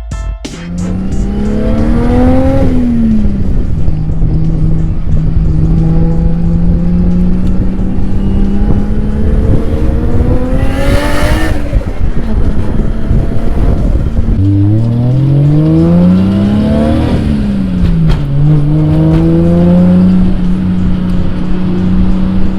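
Nissan 350Z's 3.5-litre V6 running hard while drifting: the engine note rises and falls with throttle, holding steady revs in between. It revs up and back down twice, with a brief rush of noise about eleven seconds in.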